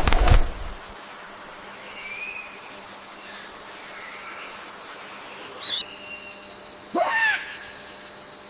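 Natural ambience with a steady faint hiss: a brief loud rustling burst at the start, a few faint chirps, then near the end a loud bird call, a short note that sweeps downward, following a fainter high falling note.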